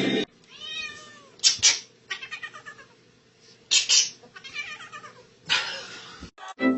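A domestic cat meowing several times in separate calls that bend in pitch, with a few short sharp noises between them and a short burst of noise near the end.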